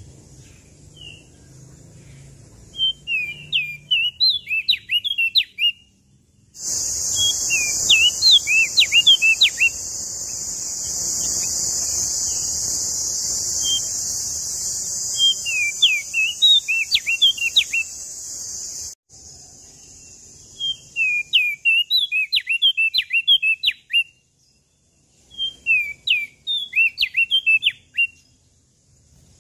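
Prenjak daun lombok songbird singing: about five bursts of rapid, sharply sweeping high chirps, each a couple of seconds long and spaced a few seconds apart. A loud, steady, high-pitched hiss starts suddenly about a quarter of the way in and cuts off about twelve seconds later.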